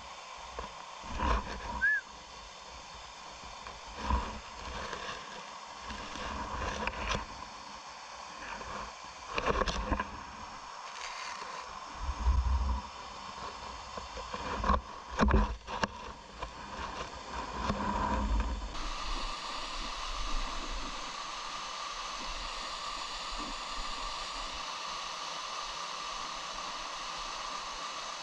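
Steady rush of a mountain stream's running water, broken by irregular loud low bumps and knocks during the first two-thirds. Near two-thirds in, the bumps stop and the water becomes a smoother, brighter, even rush.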